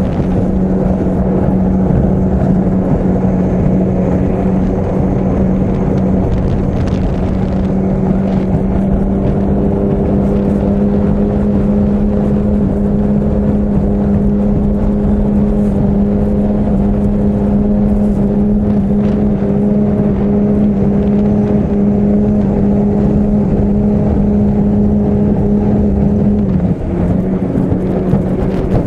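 Two-stroke 25 hp outboard motor on a small three-point hydroplane, running loud and steady at one held engine note. Near the end the note briefly drops and the level dips, then it picks up again.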